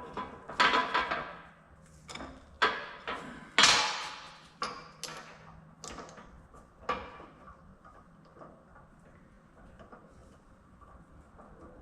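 Steel press tooling and parts knocking and clanking together as they are handled at a shop press: about six sharp metallic knocks, each ringing briefly, the loudest about three and a half seconds in. The last several seconds hold only faint small taps.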